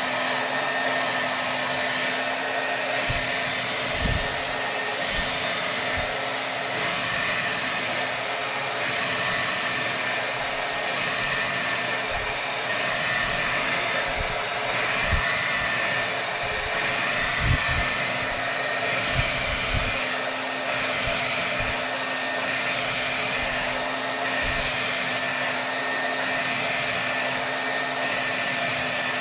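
Hair dryer running steadily at full blast: an even rush of air with a steady motor whine. A few brief low bumps come through in the middle.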